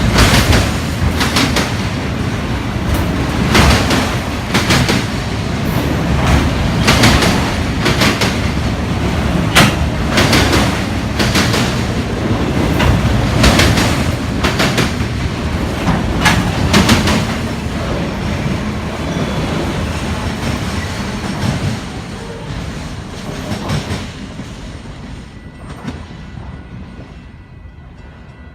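Union Pacific autorack freight cars rolling past, their wheels clacking over rail joints in a string of sharp clicks over a steady rumble. Over the last several seconds the clicks stop and the noise fades away as the train moves off.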